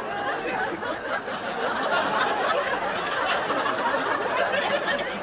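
Studio audience laughing, many voices at once in a steady spell of laughter.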